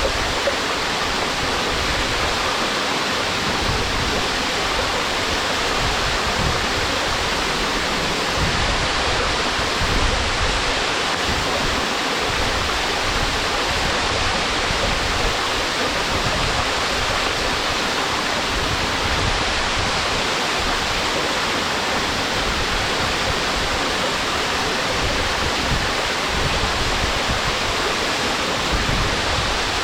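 Waterfall: water falling and splashing into its pool in a steady, unbroken rush.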